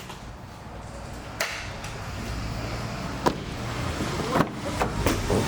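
Mitsubishi Outlander's engine running steadily at idle, growing louder, with five sharp clicks and knocks over it.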